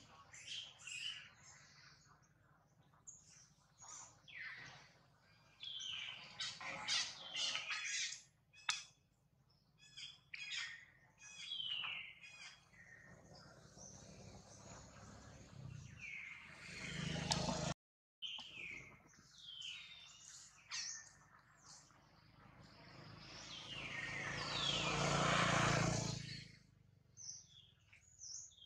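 Birds chirping in many short, high calls scattered throughout. Near the end a rushing noise swells for a few seconds and then fades, and there is a brief cut-out in the sound a little past the middle.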